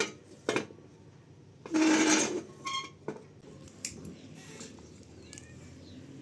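A few sharp knocks, then a louder clatter of about half a second roughly two seconds in, followed by a few lighter knocks.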